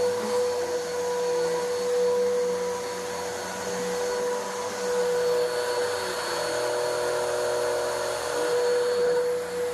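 Bissell vacuum cleaner running steadily, a motor whine over a rush of suction, swelling and easing every few seconds as it is pushed over carpet. It is pre-vacuuming, pulling dry soil and lint out of the carpet before cleaning.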